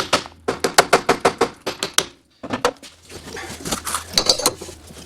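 Rapid run of sharp metallic clicks and taps, several a second, from tools working a gear puller to free a steering-gear Pitman arm that will not let go. The clicking breaks off briefly a little past two seconds in and then resumes.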